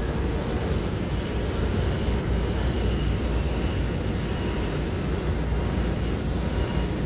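Steady rumble of an MBTA Green Line light-rail train running along the track, heard from inside the passenger car.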